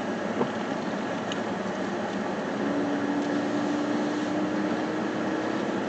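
Steady noise heard from inside a vehicle driving along, with a car air-conditioning fan blowing. About two and a half seconds in, a steady low hum joins and holds.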